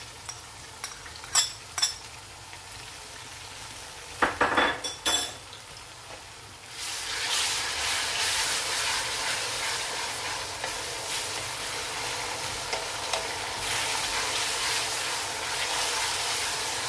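A spoon clicks and scrapes against a china plate and a few knocks follow as ginger-garlic paste is spooned into the pan. About seven seconds in a loud, steady sizzle starts as the paste and lightly browned onions fry in hot oil in an aluminium karahi, stirred with a wooden spatula.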